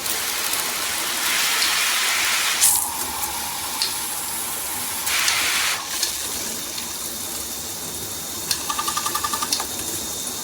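Handheld shower head spraying a strong stream of water: a steady hiss that swells louder twice. Near the end comes a quick run of about ten ticks in a second.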